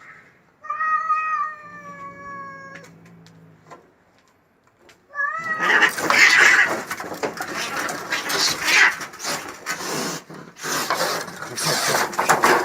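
Cats fighting. First comes one long yowl of about two seconds that falls slightly in pitch, over a low growl. From about five seconds in there is a loud, dense scuffle of screeching and hissing.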